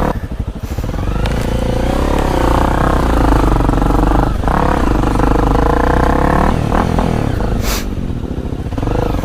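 Honda CRF250L's single-cylinder four-stroke engine running on a trail ride, its revs rising and falling with the throttle. In the first second it pulses slowly at low revs before picking up.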